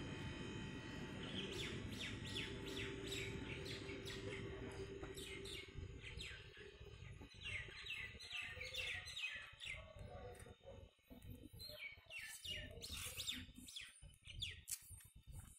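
Small birds chirping in rapid runs of short, quick notes, over a low steady rumble during the first half.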